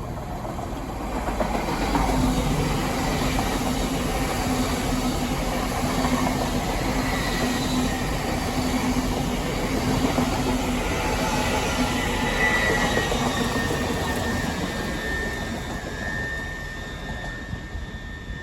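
Passenger train running along the line, heard from inside the carriage: a continuous rumble of wheels on rail with a low steady hum through the first half. A faint high wheel squeal comes in past the middle, and the noise eases off near the end.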